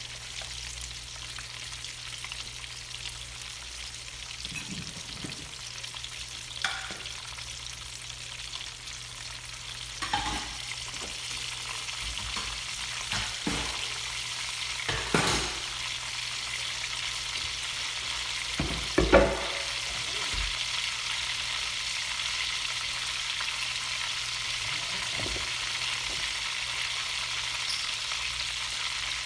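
Chicken pieces coated in crushed hot buffalo pretzel crumbs frying in hot oil: a steady sizzling hiss that gets a little louder about a third of the way in. A few sharp knocks sound over it, the loudest about two-thirds through.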